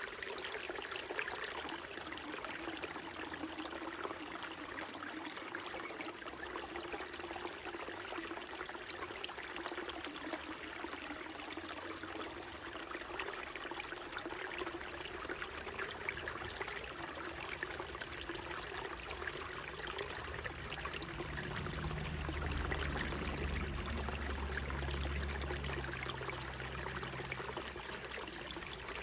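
Small mountain stream babbling and trickling steadily. A low rumble joins for several seconds about two-thirds of the way in.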